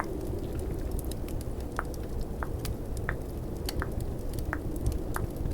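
Close-miked tongue clicks, a short pop about every 0.7 seconds from a couple of seconds in. They play over a steady snowstorm wind ambience and a crackling fireplace.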